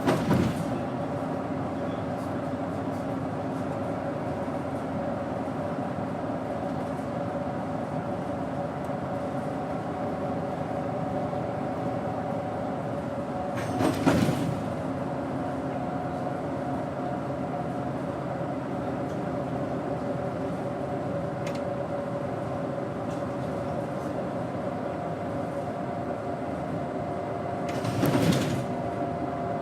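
Doosan GE12Ti 290 ps turbocharged natural-gas engine of a Daewoo BS110CN bus running steadily under way, heard from inside the bus. A short, loud rush of noise cuts in three times, about every 14 seconds: at the start, midway and near the end.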